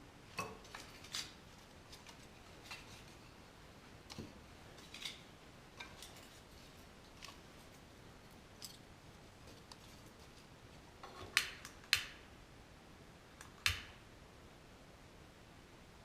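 Scattered light clicks and clinks of small hard objects being handled, with a cluster of three sharper knocks about two-thirds of the way through.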